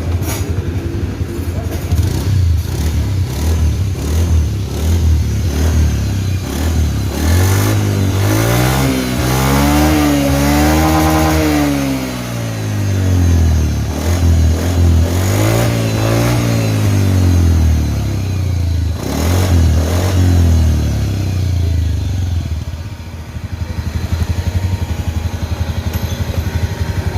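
Honda Beat FI scooter engine with its CVT running and being revved up and down several times, then settling lower. This is a test run after the gearbox and CVT rebuild (new kick-starter shaft seal, bearing, shaft, pulley and oils) meant to cure a whine, which the owner reports is gone.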